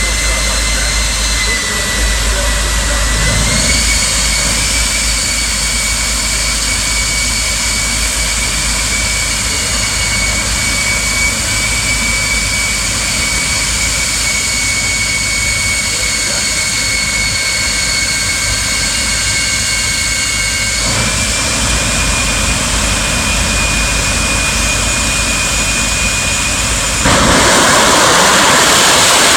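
Jet engine of a jet-powered Kenworth semi truck running with a steady high turbine whine over a rushing noise. The whine steps up in pitch about three seconds in and again about two-thirds of the way through. Near the end a much louder, fuller rush of noise suddenly takes over.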